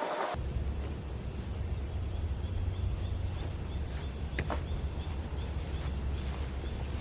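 Ford 1710 tractor's diesel engine running steadily with a low rumble. Faint, evenly repeated high chirps sound over it.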